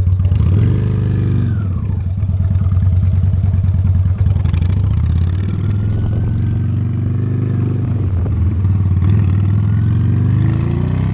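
Honda Steed V-twin motorcycle engine pulling away and riding on, its pitch rising and falling as it accelerates.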